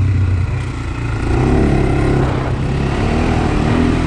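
Single-cylinder four-stroke engine of a Honda 400X sport ATV running on a trail ride. The engine eases off about half a second in, then comes back on the throttle with its pitch rising from about a second in.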